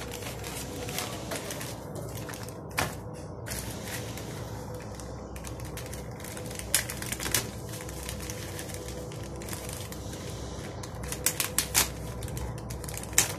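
Parcel packaging being opened by hand: a steady rustling of plastic and paper wrapping, with scattered sharp snaps and clicks that cluster near the end.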